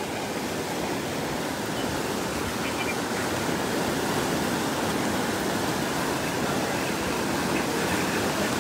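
Floodwater in a flash-flooding creek rushing steadily over a low-water crossing.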